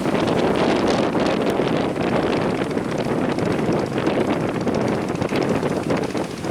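Strong wind buffeting the microphone, a loud, steady rushing roar.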